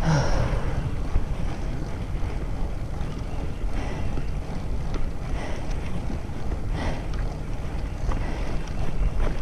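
Wind buffeting the microphone during a bicycle ride: a steady low rumble, with a few faint brief sounds over it.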